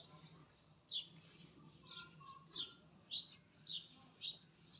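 A bird chirping over and over, short falling chirps about every half second.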